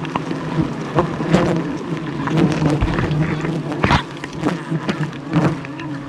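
Swarm of wild honeybees buzzing in a steady drone close to the microphone, with scattered knocks and crackles, the loudest about four seconds in.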